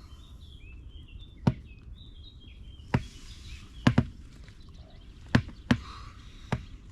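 Several sharp knocks and taps, spaced irregularly, about seven in all. In the first two seconds a small bird twitters in short, high notes.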